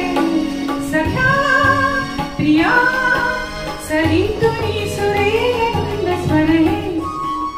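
A woman singing a Marathi song over instrumental backing, with long wavering and gliding sung notes. Her voice stops about seven seconds in, leaving a held instrumental note.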